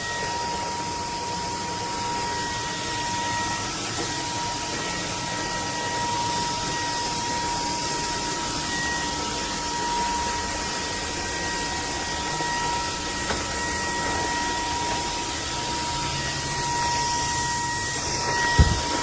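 JELLYPIG cordless stick vacuum running steadily, its motor giving a constant high whine over a rushing hiss. A single knock comes near the end.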